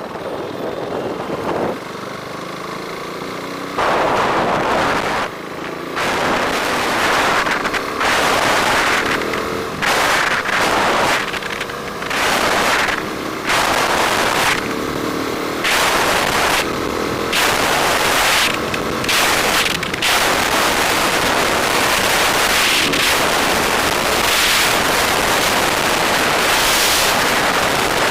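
Wind buffeting the microphone of a moving bike, coming in abrupt gusts about a second long, then holding as a steady loud rush.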